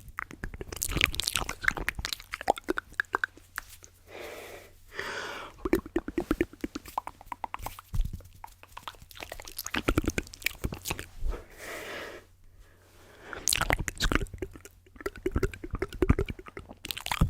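Close-miked ASMR mouth sounds and tapping: rapid wet clicks and smacks. Two longer breathy hisses come about four and eleven seconds in.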